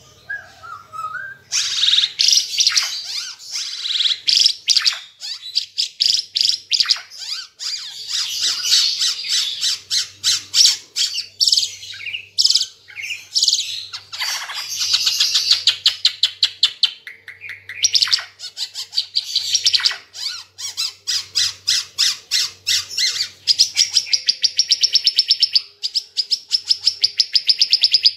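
Ara Timor (Timor green figbird) singing a loud, rapid chatter of high notes, breaking into long runs of fast repeated notes.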